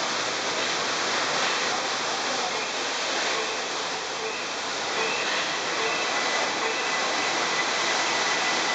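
BTS Skytrain electric train moving off along the platform: a steady rushing noise, with a faint high whine joining it about five seconds in.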